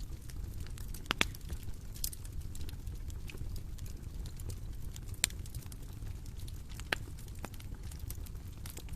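Bonfire crackling: a steady low rumble of burning with irregular snaps and pops from the wood, a few sharper ones standing out.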